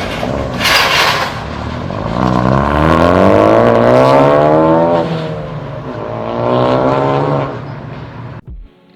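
A car engine accelerating hard as the car pulls away: its pitch climbs for about two seconds, then drops, then rises briefly once more before the sound cuts off near the end. There is a short, loud burst of noise about a second in.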